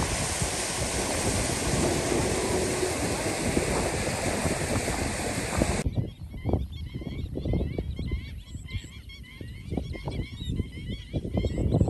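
A steady, loud rushing noise that cuts off suddenly about six seconds in, giving way to quieter outdoor sound with many short, high chirps and scattered low knocks.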